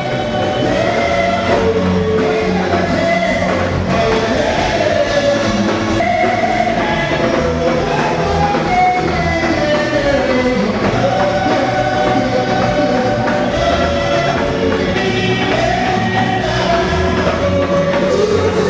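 Gospel music: a choir singing over steady instrumental backing.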